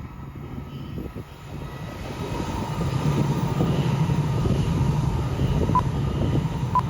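Hokuriku Shinkansen Asama bullet train approaching, its running noise growing louder from about two seconds in and then holding steady as it comes by.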